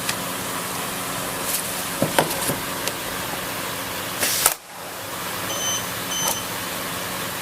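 Steady hum of a Richpeace automatic sewing machine, with a few clicks about two seconds in. A short, loud hiss comes about four seconds in and cuts off suddenly, followed by two short electronic beeps.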